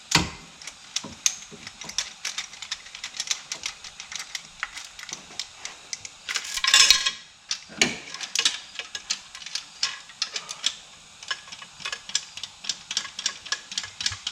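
Hand ratchet wrench clicking in quick runs of sharp clicks while the engine's motor mount nuts are tightened down, with a louder metallic clatter about halfway through.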